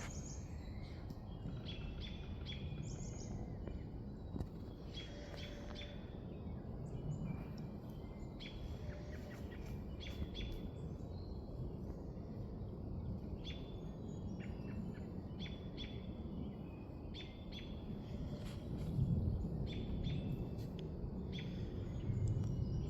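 Small birds chirping, many short repeated calls, over a steady low outdoor rumble that swells briefly about nineteen seconds in and again near the end.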